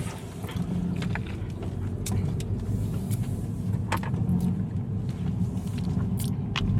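A car driving along, a steady low rumble of engine and road noise, with a few faint clicks.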